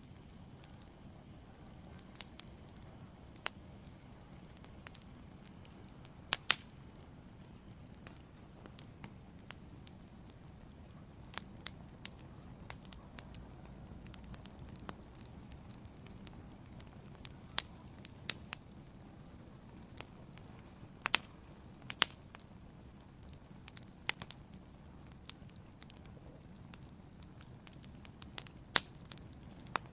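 Wood fire burning in a fireplace: a steady low rumble of flames with irregular sharp crackles and pops from the logs, a few of them louder.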